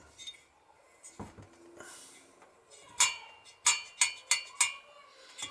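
New stainless steel engine valves clinking together as they are handled: about five sharp metallic clinks with a ringing tone in the second half, after a brief rustle near the middle.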